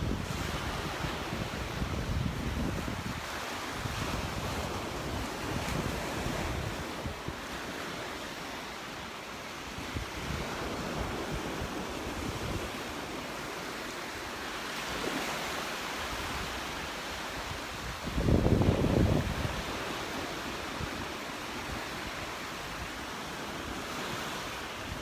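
Surf washing onto the beach, with wind buffeting the microphone. A stronger low buffet comes about three-quarters of the way through.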